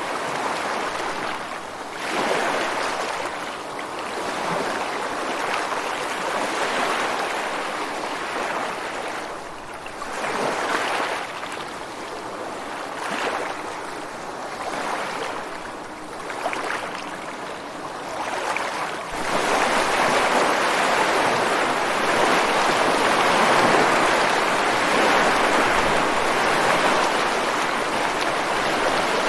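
Ocean surf breaking and washing over sand and rocks, in separate surges every few seconds. From about two-thirds of the way through, the sound steps up suddenly into a louder, continuous wash.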